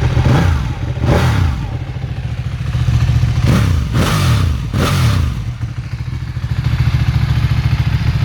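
Ducati 1299 Panigale's 1285 cc Superquadro L-twin idling with an uneven, lumpy beat, revved four times with quick throttle blips that each fall straight back to idle.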